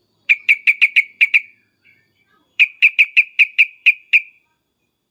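Yellow-vented bulbul (trucukan) giving loud, agitated 'cuk-cuk' calls: a quick run of seven sharp notes, then, about two and a half seconds in, a second run of eight.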